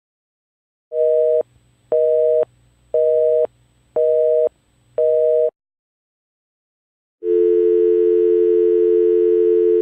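Telephone busy signal: five evenly spaced beeps, about half a second each at one per second. After a short silence, a steady telephone dial tone starts about seven seconds in.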